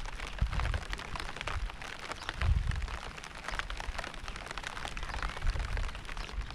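Steady rain falling, with the dense, crackling patter of many drops hitting a surface. Low rumbles swell up and die away about three times.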